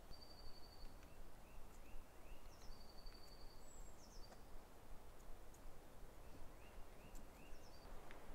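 Faint birdsong over a low outdoor background hum: a couple of rapid trills of high notes, short runs of chirping notes, and a few quick downward whistles, with scattered faint clicks.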